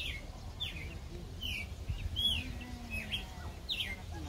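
A bird chirping over and over, a short note rising then falling every half second to a second, over a low rumble.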